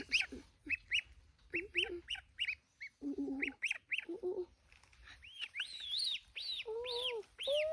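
Baby birds in a nest calling, a rapid series of short chirps that rise and fall in pitch. A few lower, longer calls come in the second half.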